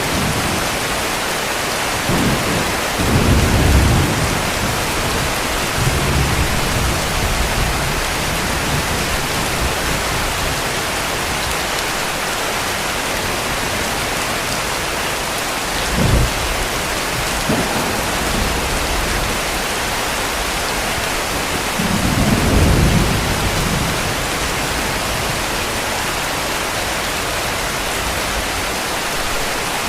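Steady heavy rain hissing, with distant thunder rumbling low several times: a few seconds in, a short sharper clap around the middle, and a longer rumble about three-quarters of the way through.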